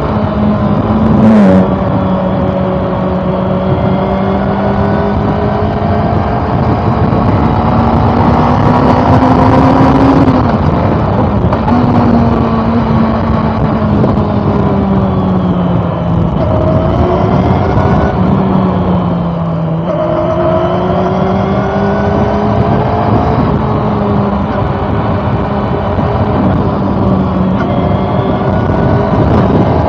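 Honda CB400 Super Four's inline-four engine running under way, its pitch slowly climbing and falling with speed. There is a sudden drop in pitch about a second and a half in, and breaks around ten and twenty seconds in, as from gear changes or throttle. Wind rush underneath.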